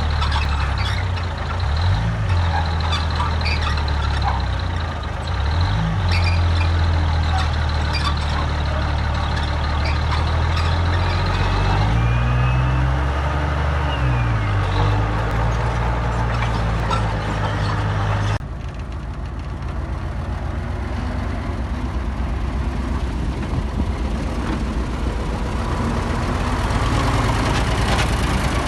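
Heavy diesel engine of earthmoving machinery running under work, its pitch rising and falling several times. About two-thirds of the way in the sound changes abruptly to a steadier, lower engine drone.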